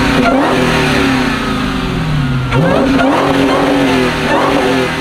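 Truck engine revved hard twice: the pitch climbs and holds, sags back, then climbs sharply again about two and a half seconds in before dropping off near the end.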